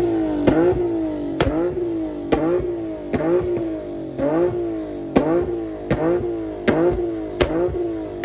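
Car engine being revved at a car meet in quick repeated throttle blips, about one every 0.8 seconds. Each blip starts with a sharp crack and falls away in pitch as the revs drop.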